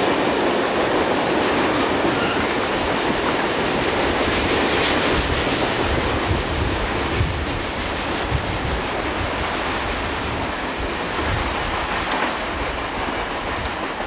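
Freight train rolling past at speed: a steady noise of wheels and cars on the rails, easing off slightly in the second half.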